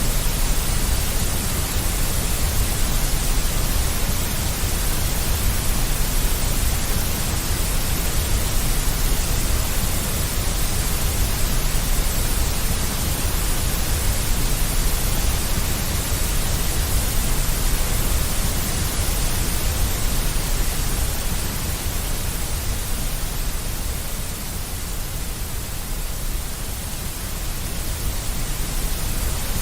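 Steady deep white noise: an even, full hiss with a heavy low rumble underneath, dipping slightly in level for a few seconds near the end.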